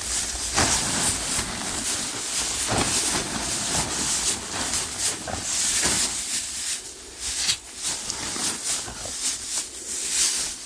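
An animal digging: claws scraping and scratching loose earth in rapid, uneven strokes, with flung dirt rustling.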